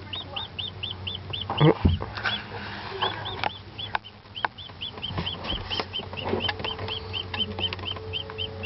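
Newly hatched chick peeping over and over, short up-and-down peeps about four a second, with a short break about two seconds in. Scattered light taps and a louder thump near two seconds come from the chick moving about, over a steady low hum.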